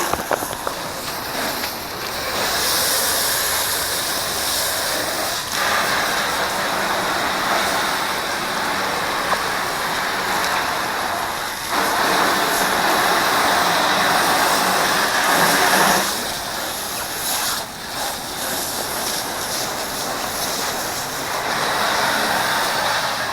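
Water from a garden hose spraying onto a truck's body and wheels: a steady rushing hiss that swells and eases as the stream moves over different surfaces, loudest for a few seconds past the middle.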